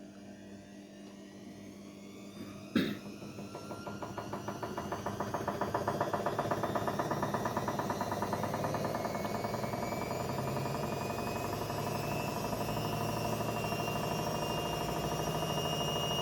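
Haier 7.5 kg front-loading washing machine: a sharp click about three seconds in, then the motor starts and the drum speeds up, with a fast, even pulsing and a whine that rises slowly in pitch and grows louder. This fits the drum spinning up near the end of a delicate cycle.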